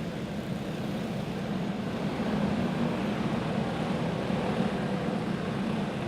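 A field of racing karts with small single-cylinder clone engines running at low speed, as they circle under caution before a restart. It makes a steady, rough engine drone that swells slightly in the middle.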